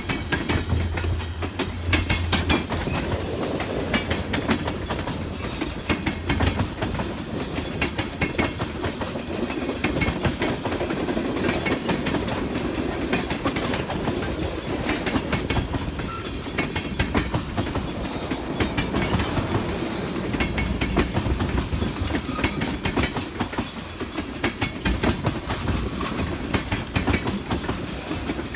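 Freight train cars rolling past, their wheels clicking rapidly and steadily over the rail joints. A low hum under the clicking fades out about six seconds in.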